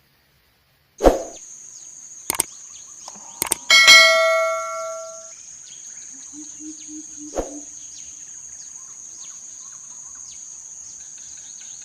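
A sharp hit and a couple of clicks, then a loud bell-like ding that rings out for about a second and a half. Under it a steady high-pitched insect drone starts and runs on, with many short falling bird chirps over it.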